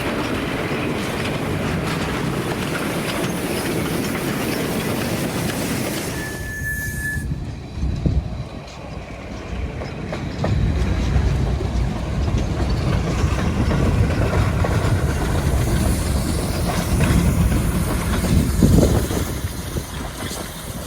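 Little River Railroad #1, a small 0-4-0 steam tank engine, running with its two-car train. A brief single high tone sounds about six seconds in, and a louder, deeper rumble begins about ten seconds in.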